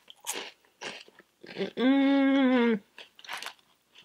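Crunchy chewing of a Harvest Snaps green pea crisp, with a held 'mmm' hum of about a second midway and more chewing after it.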